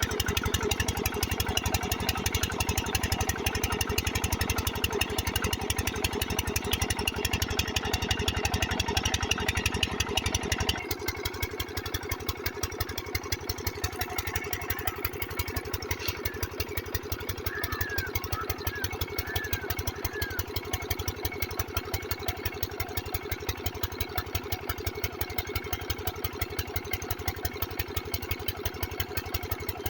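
Kranti water-pump engine running steadily with a fast, even firing beat. About 11 s in, the sound abruptly drops in level and loses much of its low end, then carries on steady.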